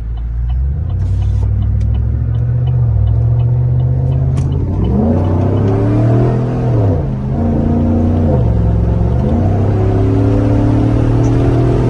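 Chevrolet Silverado pickup's engine and exhaust under hard acceleration: it runs steady at first, then the note climbs from about five seconds in, drops at an upshift partway through, and climbs again.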